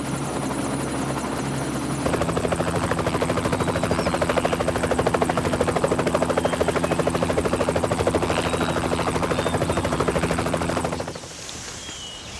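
Helicopter running, its engine and rotor making a steady drone. About two seconds in it gets louder, with a fast even blade chop, then drops off suddenly near the end, leaving faint outdoor noise.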